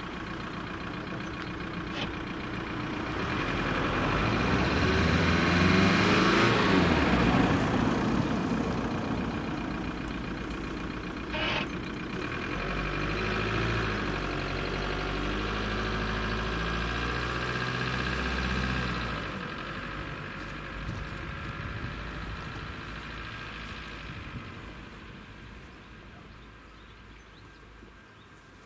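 Train passing over the level crossing: loudest about five to eight seconds in, with stepped low tones, then fading away over the last several seconds.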